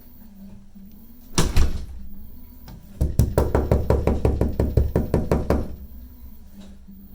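One loud thump, then a rapid run of sharp knocks at about nine a second for close to three seconds.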